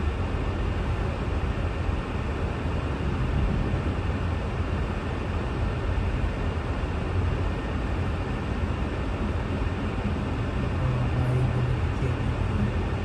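Steady low rumble of a car driving, engine and tyre noise heard from inside the cabin, with a low hum swelling briefly about eleven seconds in.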